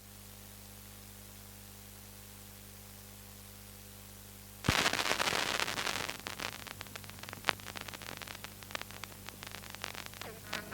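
Vinyl LP playback: a steady mains hum and faint hiss, then a sharp thump about halfway through as the stylus drops onto the record, followed by dense crackling and clicking from the groove's surface noise before the music starts.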